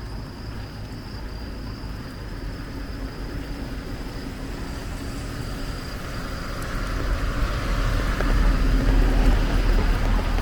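A car passing on a wet street, its tyre hiss and engine rumble swelling from about six seconds in to a peak near the end, over steady rain. A thin, steady high-pitched tone runs underneath.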